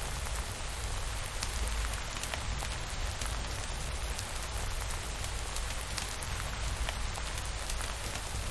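Steady rain falling on a surface, with scattered sharp ticks of single drops over a steady low rumble.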